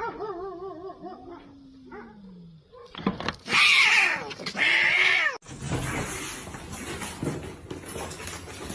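Cats in a standoff: a wavering, drawn-out yowl, then a low falling moan, then two loud harsh hisses about a second apart. After the hisses, rough scuffling noise follows.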